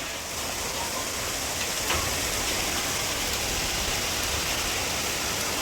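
Heavy rain falling hard and steadily, an even dense hiss.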